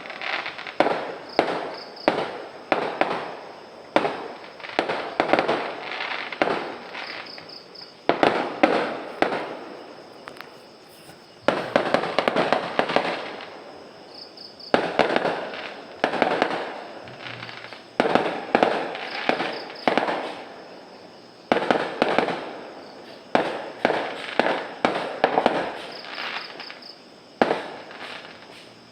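Fireworks going off in rapid volleys: sharp bangs about every half second to a second, each trailing off, in runs of a few seconds broken by brief lulls.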